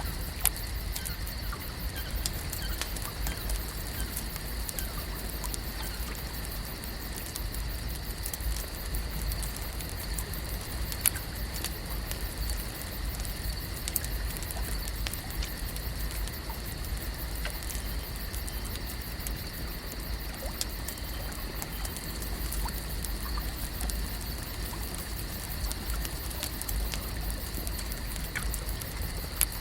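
Lake ambience: a steady outdoor background with a low rumble and two faint, steady high-pitched tones, dotted throughout with small ticks and pops and a few sharper clicks.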